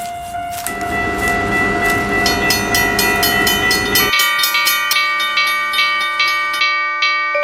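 Train sound effect: a held horn chord of several tones over the rumble of a train, which stops about four seconds in, with rapid regular clicking, about five a second, through the second half.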